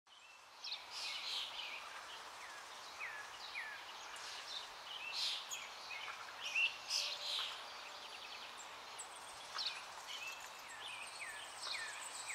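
Several birds chirping and calling, with frequent short notes and quick sliding calls, over a soft steady hiss of natural ambience.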